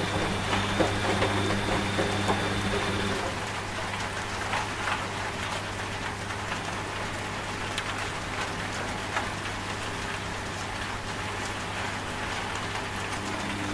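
Steady rain with scattered drops striking a surface. Under it a washing machine's steady motor hum cuts out about three seconds in, and a hum and a tone come back right at the end.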